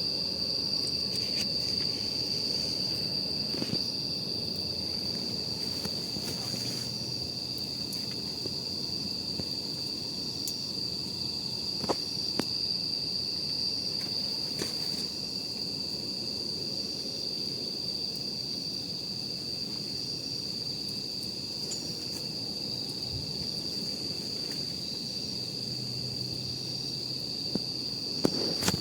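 Wood campfire burning with a soft continuous crackle and a few sharp pops, one about twelve seconds in and several near the end. Over it, night insects keep up a steady high-pitched trill on one note.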